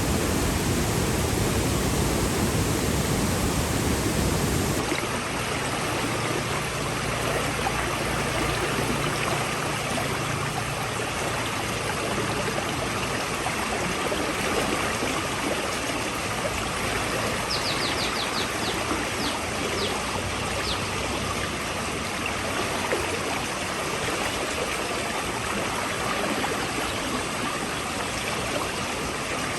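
Floodwater flowing steadily, a continuous rushing wash; about five seconds in the sound changes abruptly, losing its heavier low rumble, and later a brief run of faint high ticks sounds over the water.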